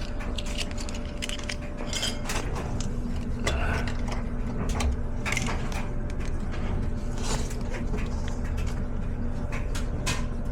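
Small metal clicks and clinks from handling parts and tools while a fuse is fetched and fitted, over a steady low electrical hum.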